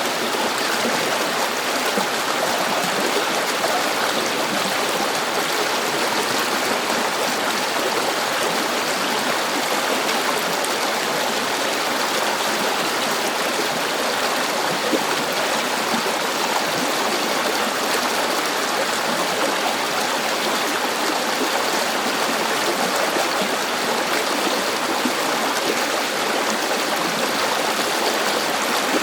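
A river or stream flowing, a steady even rush of water with a gurgling, trickling texture and no breaks.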